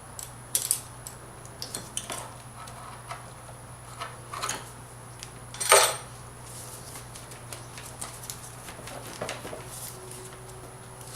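Metal hand tools clicking and clinking against engine parts while a 10 mm bolt on the intake is loosened: irregular sharp clinks, the loudest about six seconds in, over a steady low hum.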